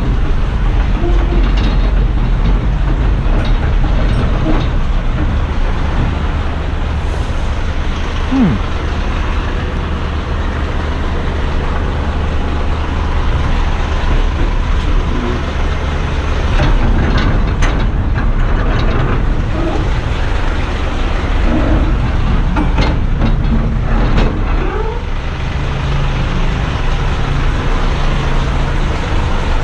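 Eight-wheeler garbage truck's diesel engine running steadily, with a few sharp knocks or clanks between about 17 and 25 seconds in.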